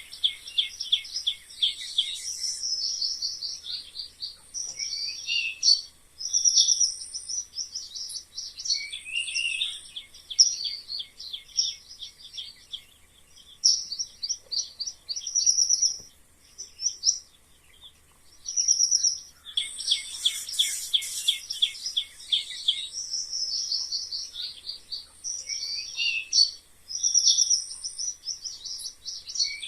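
Mice squeaking in bouts of rapid, short, high-pitched chirps with brief pauses, the squeaking densest about twenty seconds in.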